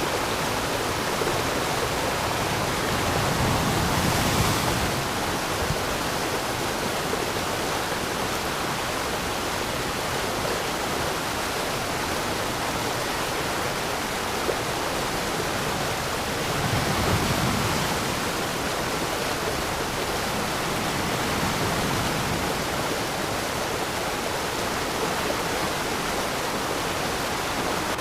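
Waterfall: a steady rush of falling, splashing water, swelling slightly twice.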